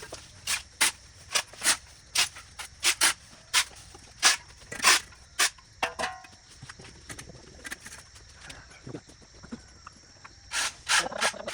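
A series of sharp, irregular knocks, about two a second for the first five seconds, fewer in the middle, then a quick cluster near the end, over a faint steady high hum.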